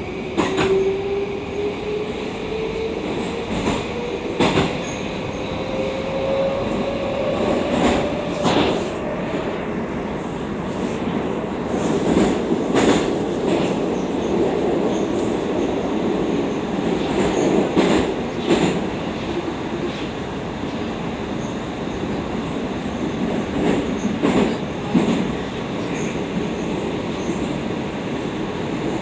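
Moscow metro 81-760/761 Oka train running through the tunnel, heard from inside the carriage. Over the first nine seconds the traction motors' whine rises slowly as the train gathers speed, then it settles into a steady running noise with scattered sharp clicks and knocks from the wheels on the rails.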